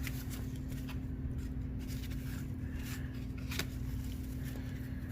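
Trading cards being flipped and handled: a few faint, sharp clicks and ticks over a steady low hum.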